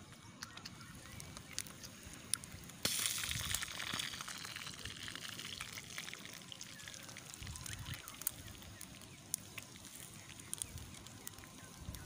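Fish frying and sizzling in oil and sauce in a small camping pot on a gas canister stove, with a wooden spatula clicking and scraping against the pot. About three seconds in the sizzling suddenly gets louder, then slowly dies back.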